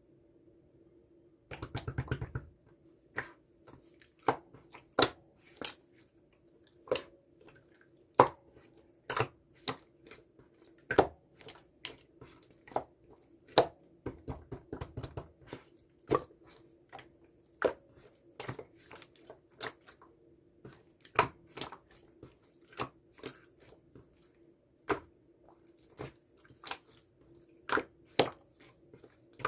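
Clear slime being pressed and stretched by hand, giving sharp wet pops and clicks about once a second, with quick runs of crackling about two seconds in and again around fourteen seconds. A faint steady hum runs underneath.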